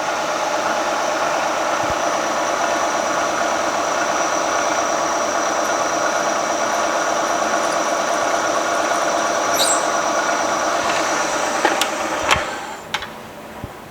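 Drill bit in a milling machine cutting into a very hard steel crankshaft, a steady multi-tone squeal that stops about twelve seconds in.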